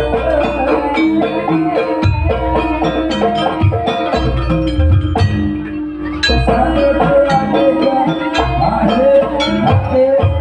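Live East Javanese jaranan gamelan music: percussion-led, with tuned struck instruments and drums under a melody line that bends in pitch. The sound briefly drops away about six seconds in, then the full ensemble comes back in.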